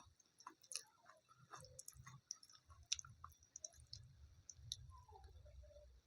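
Faint close-up eating sounds: chewing with many small wet mouth clicks and smacks.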